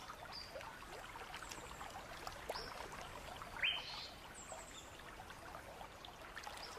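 Stream water trickling steadily, with a few short bird chirps and whistles, the clearest a little before four seconds in.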